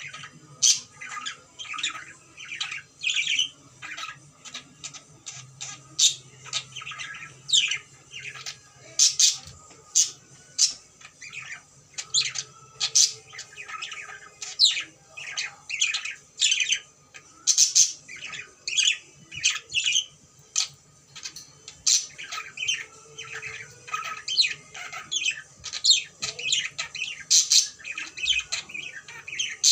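Pet cockatiel calling: a run of short, high squawks and chirps, one to three a second with brief pauses, many dropping in pitch.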